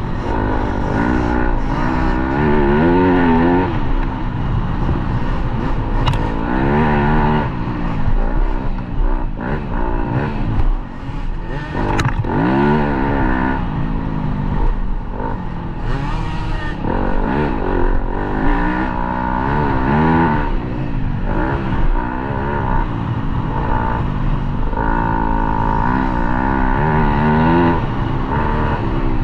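Motocross dirt bike engine being ridden hard, revving up and falling back again and again as the rider works the throttle and shifts around the track.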